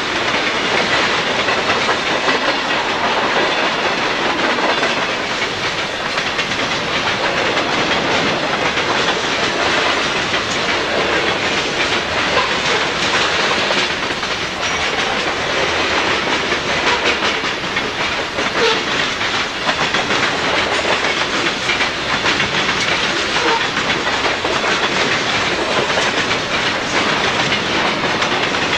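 Mixed freight train of tank cars, covered hoppers and boxcars rolling past at speed. Its steel wheels click over the rail joints in a steady, loud rolling noise.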